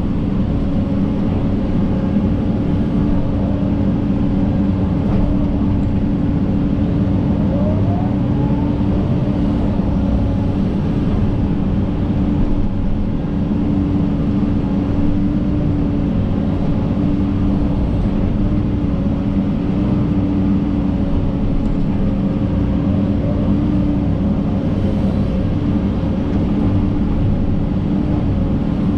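John Deere 130G excavator's diesel engine running steadily under load, with a constant low hum.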